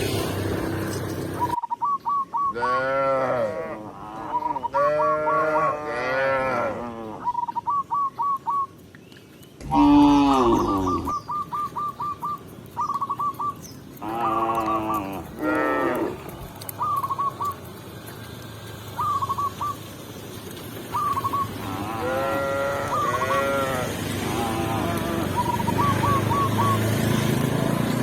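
Cattle mooing: several long calls a few seconds apart, each rising and then falling in pitch, the loudest about ten seconds in. Between the moos, short high notes repeat in quick runs.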